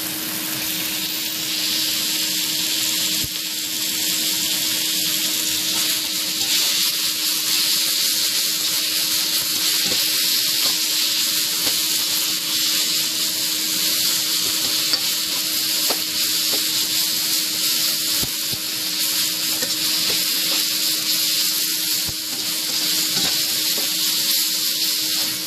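Chicken frying in a pan with a steady, continuous sizzle, stirred now and then.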